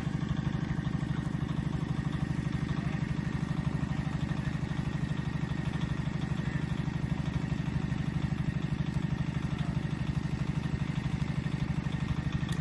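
Engine running steadily at idle with a fast, even throb.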